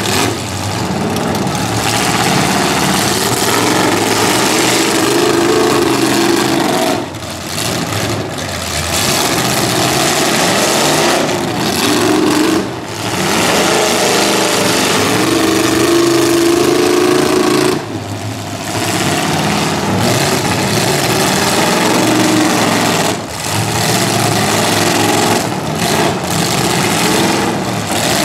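Demolition derby cars' engines running loud, their pitch rising and falling as they rev and push, with short lulls every five seconds or so.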